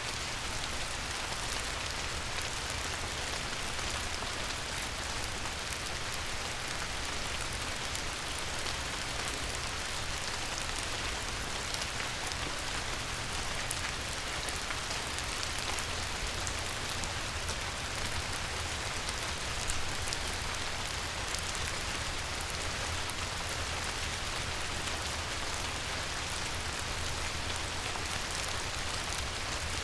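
Steady light rain falling on a river, an even hiss of drops hitting the water with fine ticking patter, over a steady low rumble.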